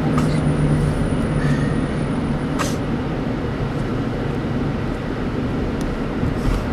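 Steady road and engine rumble heard inside a moving car, with a few brief clicks, the clearest about two and a half seconds in.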